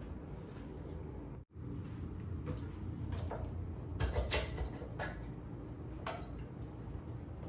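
A few short, sharp clicks and knocks of hand tools and scooter parts being handled, over a low steady hum.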